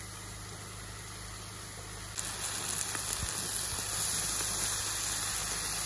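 Cabbage, bell pepper, meat, onion and carrot frying in hot fat in a cast-iron kazan: a steady sizzle that turns louder and brighter about two seconds in.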